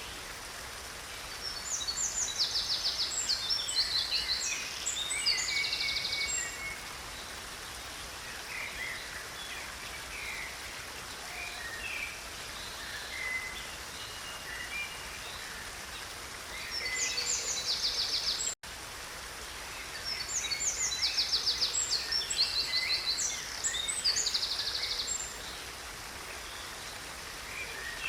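Steady rush of water in a creek, with a songbird singing two long bouts of fast, high trills and chirps, a shorter burst between them. The sound cuts out for an instant about two-thirds of the way through.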